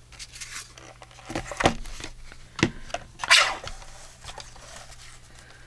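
A paper trimmer and paper being handled on a craft table: several light knocks and clicks, and a short rustle of paper about three seconds in.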